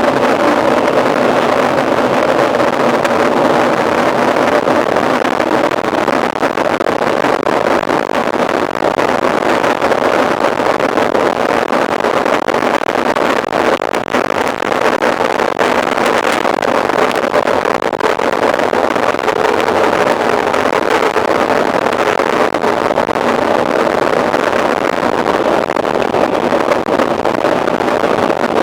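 Steady rushing noise of a mountain bike ridden at race speed: wind and tyre noise on the rider's camera, with a faint drifting hum and no break.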